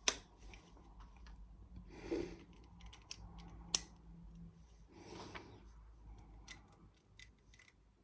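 Plastic Lego pieces being handled and pressed together: two sharp clicks, one at the start and one nearly four seconds in, with softer rustling and small ticks between.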